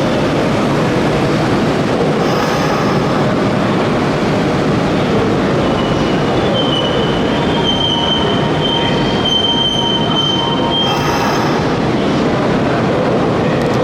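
Electric commuter train on the Hanshin Main Line running along the station platform, its rumble loud and steady. From about halfway through, its wheels squeal with a high, drawn-out tone for several seconds.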